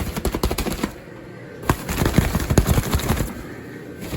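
Handling noise: rapid crackling and rustling in two runs, a short one at the start and a longer, louder one from about a second and a half in.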